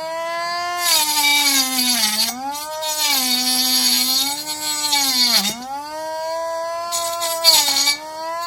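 Small homemade DC-motor grinder with an abrasive disc, whining at a steady pitch. Three times it is pressed into work, which adds a harsh scraping hiss and pulls the motor's pitch down under load; the pitch recovers between passes.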